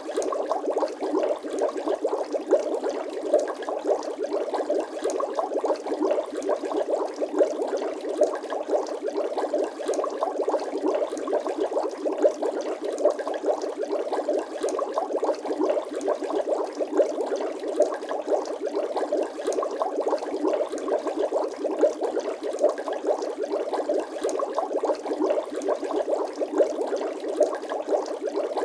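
Bubbling water sound effect: a steady, dense stream of small bubbling pops with no deep low end.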